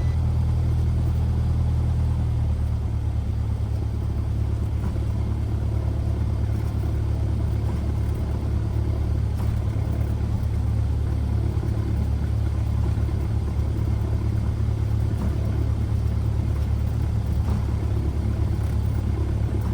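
Cessna 172R's four-cylinder Lycoming engine running at low power while taxiing, a steady low drone heard from inside the cabin.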